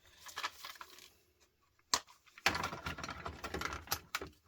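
Quick light clicks and rattles of small tools and metal parts being handled. There is a sharp single click about two seconds in, then a dense run of clicking through the rest.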